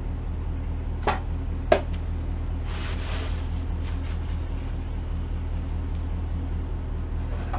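Steady low hum of an idling engine, with two sharp knocks about a second apart early on and a brief rushing scrape about three seconds in.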